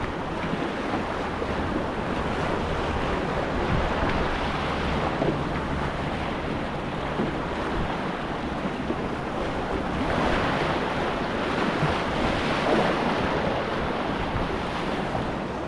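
Steady rush of whitewater on a river rapid, swelling a little around ten and thirteen seconds in, with some low wind rumble on the microphone.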